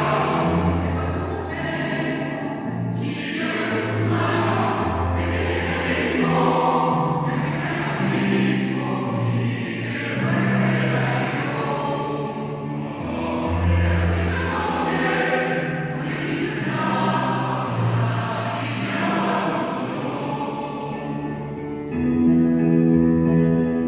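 Choir singing in long held phrases, several voice parts together; near the end the voices swell into a louder sustained chord.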